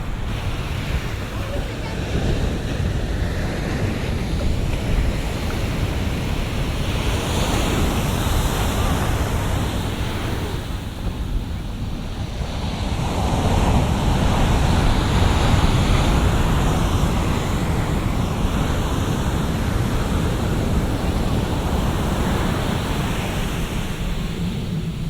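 Big shore-break waves breaking and washing in, a continuous rushing surf, with wind buffeting the binaural microphone. The surf swells louder about halfway through.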